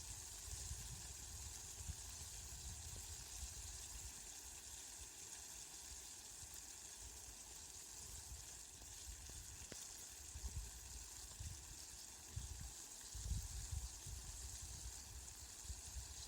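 Steady rain falling, an even hiss, with irregular low rumbles underneath that come more often after about ten seconds in.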